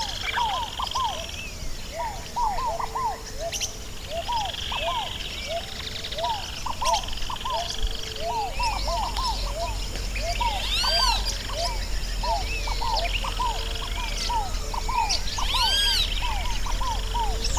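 A dense chorus of wild birds calling: many short, quick repeated notes overlapping, with a louder ringing arched call twice, about eleven and sixteen seconds in. A low rumble comes in about halfway.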